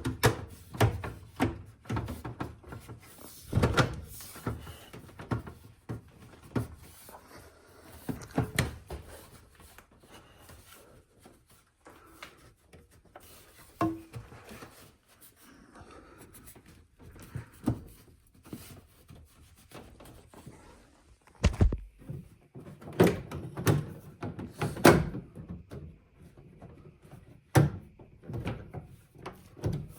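Plastic panel on a built-in speed oven being pushed and knocked into place: irregular knocks and clicks of its plastic tabs against the metal housing, with a run of louder knocks about two-thirds of the way through.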